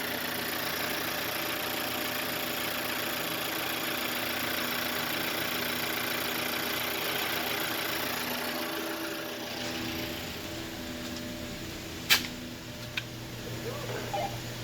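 2018 Chevrolet Malibu's engine idling steadily, a test run of a car with 77,000 miles. About twelve seconds in comes one sharp click, followed by a couple of fainter ones.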